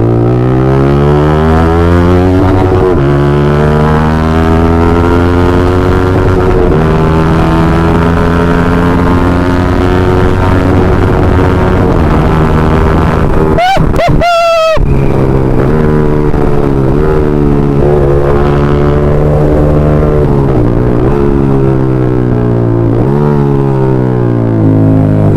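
Yamaha MT-15's single-cylinder engine through a full-system aftermarket exhaust, pulled hard through the gears: the pitch climbs and drops back at each upshift, then the bike holds a steady speed with a few short throttle dips. The note breaks off briefly about fourteen seconds in.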